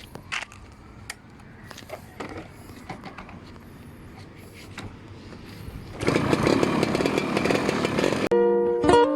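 Faint scattered tapping, then a small motor running loudly for about two seconds starting about six seconds in. Music begins near the end.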